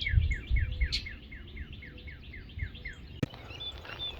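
Songbird singing a rapid run of short downslurred notes, about five a second, that stops about three seconds in. A sharp click follows, then other, higher bird chirps.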